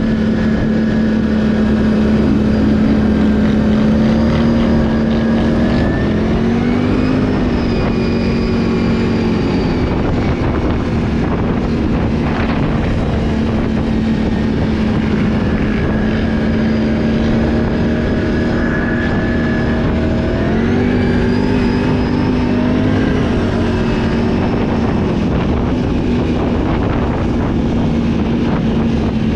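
Can-Am ATV engine running steadily under way; its pitch climbs twice as the rider accelerates, about six seconds in and again about twenty seconds in, then holds.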